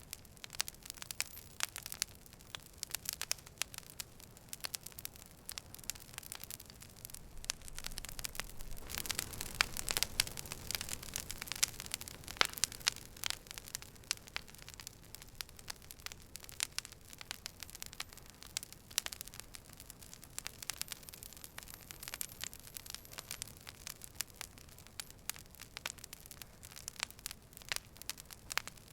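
Campfire burning, the wood crackling and popping in irregular sharp snaps over a steady low hiss, with a busier, louder spell of crackling about a third of the way through.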